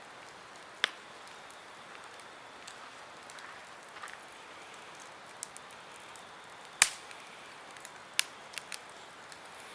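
Wood campfire crackling: scattered sharp pops over a steady soft hiss of burning, the loudest pop about two-thirds through, followed by a quick cluster of smaller ones.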